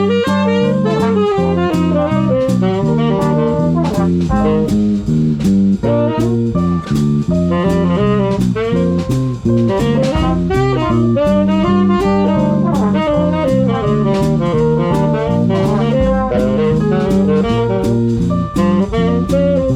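Swing band playing a swing tune, with saxophones carrying the melody over a stepping bass line and a drum kit keeping a steady swing beat on the cymbals.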